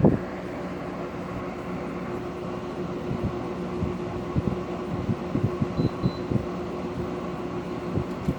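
Brand-new LG room air conditioner running, its fan blowing air over a steady electrical hum.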